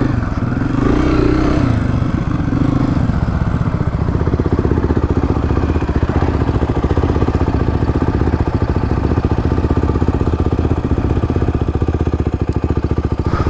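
Honda CRF250F single-cylinder four-stroke dirt bike engine giving a couple of short revs, then settling about three seconds in to a steady, fast-pulsing idle.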